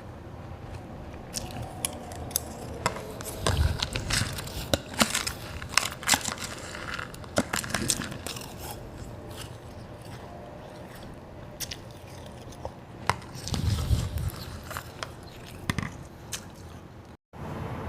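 A person biting and chewing crunchy white ice close to the microphone, in two spells of sharp crunching: one about three seconds in and one near the end.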